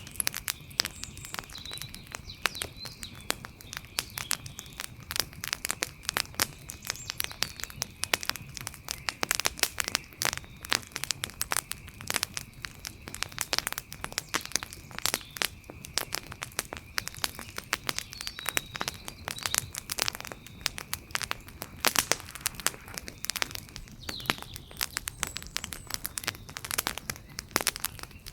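Outdoor wood fire crackling, with dense, irregular sharp pops and snaps. A faint steady high-pitched tone runs beneath, and a few brief chirps sound now and then.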